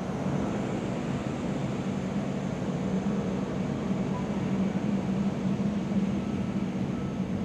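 A steady mechanical rumble with a constant low hum.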